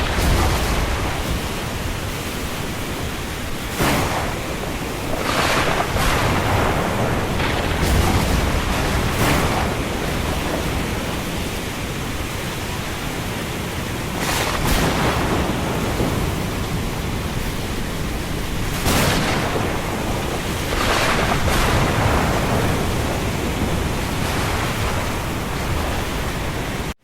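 Thunderstorm and windstorm: a steady rush of wind and rain, with sudden loud surges every few seconds.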